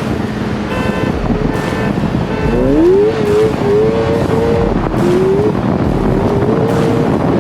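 Go-kart powered by a Suzuki GSX-R600 motorcycle engine accelerating hard: the engine note climbs steeply about two and a half seconds in, holds at high revs, dips briefly as it shifts gear, then climbs again, over steady wind and road rumble.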